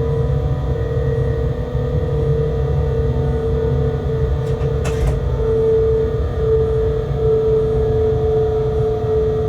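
Freight locomotive cab running noise: a steady low rumble with a constant droning hum. Two short clicks about halfway through.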